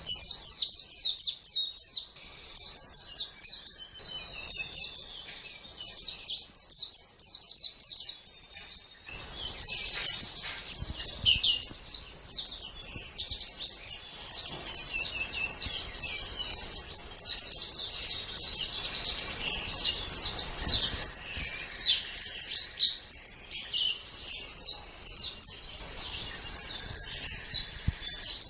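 White-eye (pleci) singing a rapid, continuous, high-pitched twittering song of quick chirps. A faint low background noise comes in about nine seconds in.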